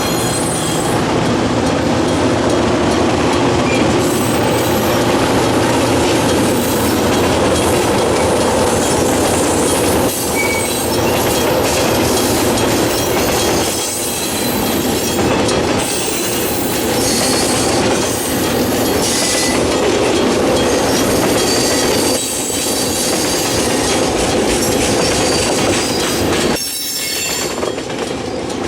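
Loaded freight train rolling past at close range: a steady, loud rumble of wheels on rail with clickety-clack over the rail joints and wheel squeal at times.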